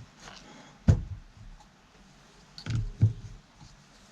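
Sockets and hand tools being handled on a workbench: a sharp knock about a second in, then two more close together near three seconds.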